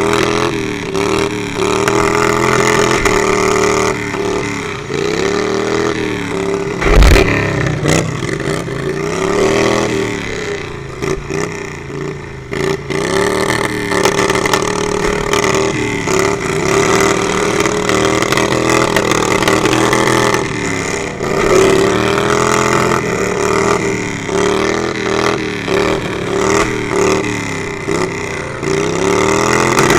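Lawnmower engines revving up and down over and over, several at once, with a loud bang about seven seconds in.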